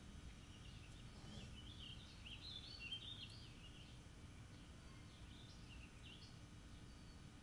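Faint bird song: a run of quick chirps and warbles, then a second shorter phrase a few seconds later, over a low steady background rumble.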